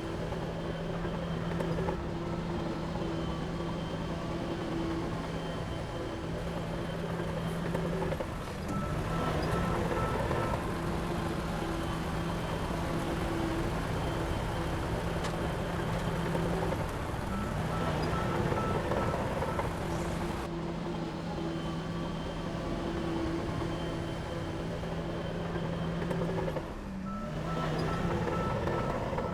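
Heavy diesel earth-moving machinery running steadily, with three spells of louder working, a little under 10, 18 and 28 seconds in. During these a reversing alarm beeps.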